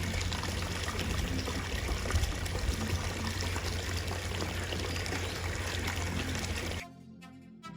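Steady rush of running water. It cuts off suddenly near the end, where background music with plucked notes comes in.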